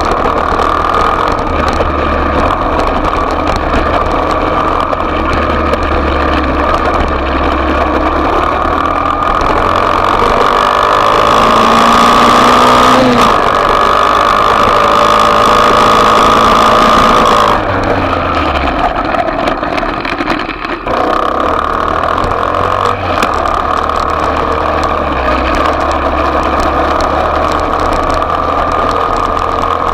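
Small off-road motorcycle engine running, revving up from about ten seconds in and held high for several seconds, then dropping back off the throttle to a steady lower run.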